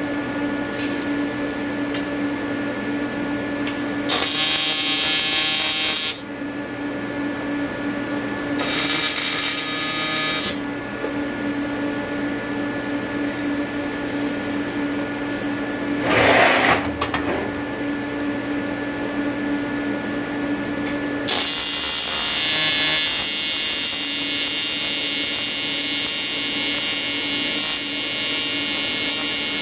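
Everlast 325EXT TIG welder running AC square wave on aluminium: a buzzing arc in two short runs and a brief burst, then a longer continuous run from about two-thirds of the way through, over a steady hum.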